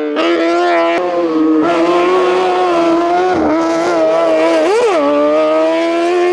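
Race car engine held at high revs under hard acceleration, with a quick rise and fall in revs about five seconds in.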